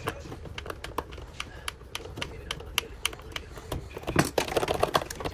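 Irregular light clicks and taps, like small parts being handled and fitted by hand, with a quicker run of clicks about four seconds in.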